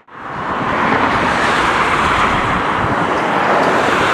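Wide-body jet airliner's engines running with a steady rushing noise that rises over about the first second.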